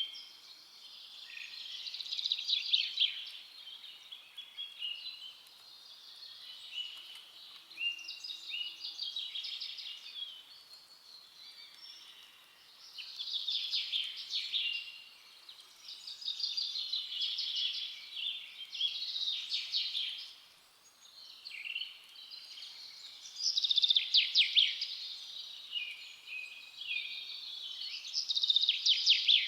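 Forest songbirds singing: phrases of quick, high chirps and trills, one after another, with short pauses between them, over a faint outdoor hiss.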